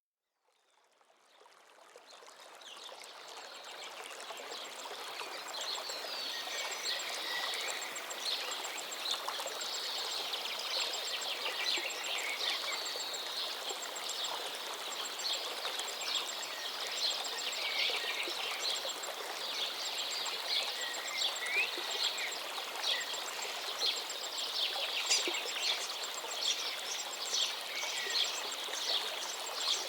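River water flowing steadily, with many birds chirping and singing over it; the sound fades in over the first few seconds.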